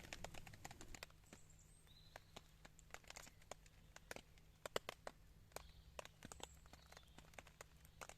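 Faint, irregular clicks and crackles, a few louder ones about four to five seconds in, with a few faint bird chirps.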